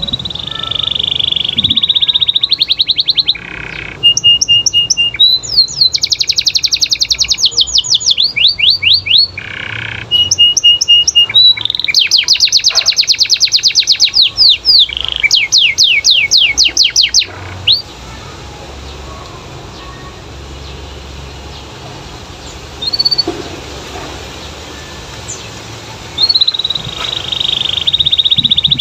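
Domestic canary singing a long, loud song of fast trills and rolling runs of repeated high notes. The song breaks off a little past the middle into a quiet stretch with a few isolated notes, then starts again near the end.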